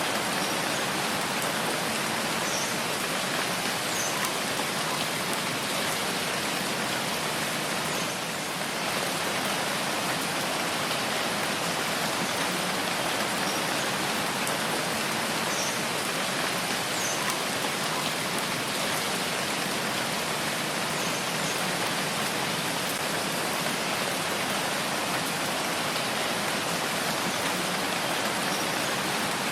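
Steady rain falling, an even dense hiss with faint scattered drop ticks. The level dips slightly for a moment about eight seconds in.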